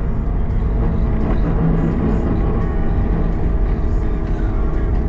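Diesel engine of a CAT 906 compact wheel loader running steadily while plowing snow.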